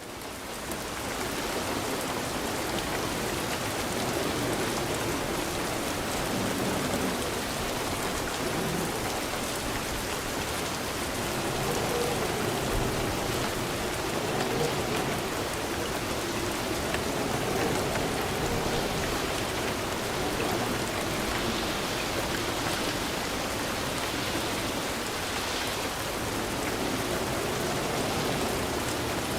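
Steady rain falling, a dense even patter of drops on a surface, fading in over the first second.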